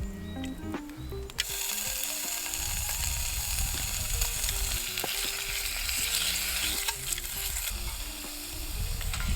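Food frying in a pan: a steady sizzle that starts suddenly about a second and a half in.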